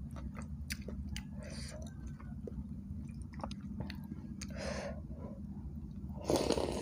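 Close-miked chewing of bakso meatball soup, with many small wet mouth clicks over a steady low hum, then a loud slurp of noodles near the end.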